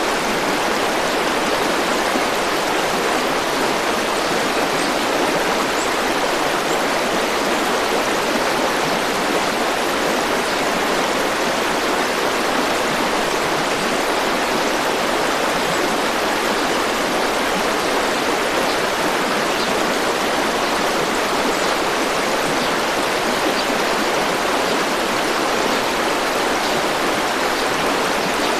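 A river flowing, a steady, unbroken rush of water with no change in level.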